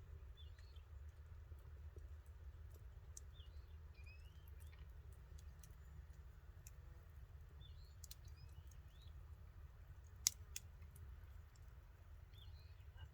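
Campfire crackling faintly with scattered sharp pops, one much louder pop about ten seconds in. Short bird chirps come several times over a steady low rumble.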